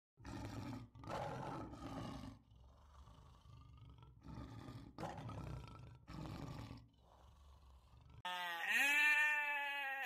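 A lion roaring: a run of deep, grunting roars about a second apart, the first two loudest and the rest fading. About eight seconds in a sheep gives one long, loud, wavering bleat.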